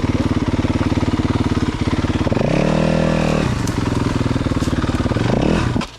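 Four-stroke single-cylinder dirt bike engine running at low revs. It is revved up and back down about halfway through and rises again briefly before going quiet suddenly near the end.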